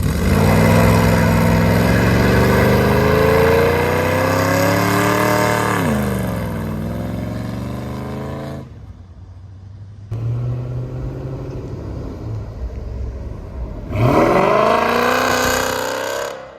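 Performance car engine revved hard and held high, its pitch climbing for about six seconds before it falls away. After a break, an engine runs lower, then is revved sharply again near the end.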